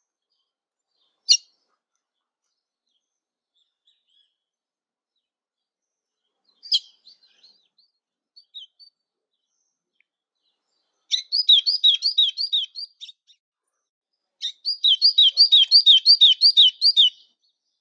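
A songbird singing: a single sharp call, a few scattered short notes, then two fast trills of repeated high, down-slurred notes, about six a second, the second trill longer and louder.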